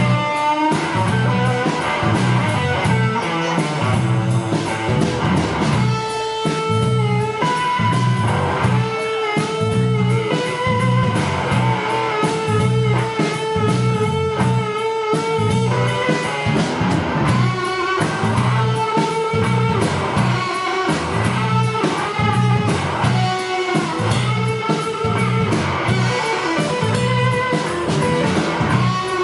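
Live blues-rock band playing an instrumental passage, led by electric guitar over a steady beat of bass and drums.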